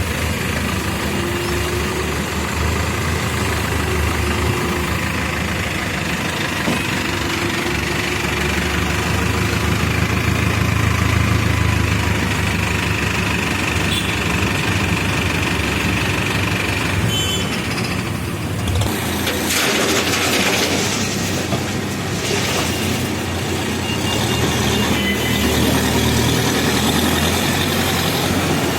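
Backhoe loader's diesel engine running steadily, its level swelling and easing a little, with a few seconds of harsher rushing noise about two-thirds of the way through.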